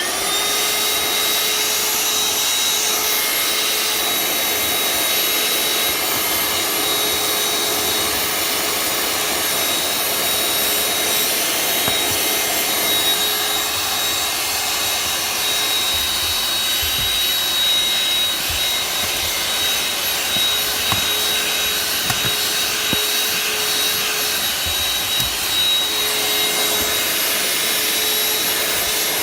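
Vacuum cleaner with a crevice tool switched on right at the start, spinning up quickly to a steady whine and rush of suction, running evenly while it cleans the car interior, with a few faint knocks of the tool.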